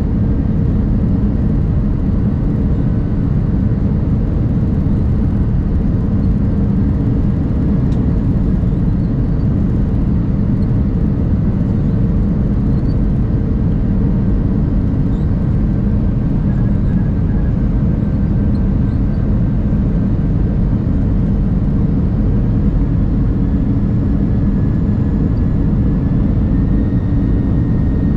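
Steady low drone inside the passenger cabin of an Airbus A319, from the jet engines and the running aircraft, unchanging throughout.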